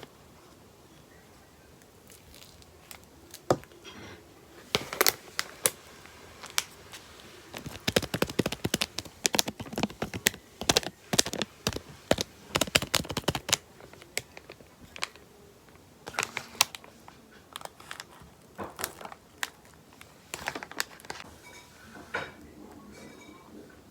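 Close-up crinkling and sharp clicking of something being handled, in irregular clusters that are densest in the middle and thin out near the end.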